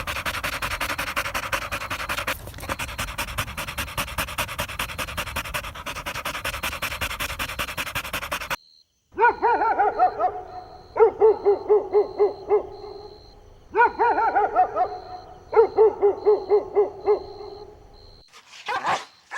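A dense, steady rasping noise for the first half. Then puppies whimpering and yipping in four quick runs of short, high, repeated calls, several a second.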